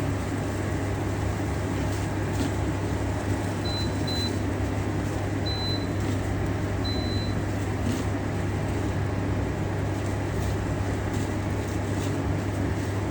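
Steady low hum of a running kitchen appliance, with four short high electronic beeps, like keypad presses, between about four and seven seconds in, the last a little longer.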